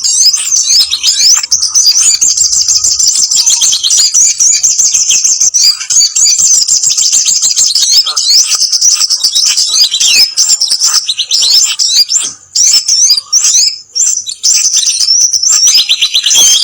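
Dense, noisy chatter of small birds, the sogon (sogok ontong) and kemade of a bird-trapping lure call: rapid high-pitched chirps and quick sweeping trills overlapping almost without pause, broken by short gaps about twelve and fourteen seconds in.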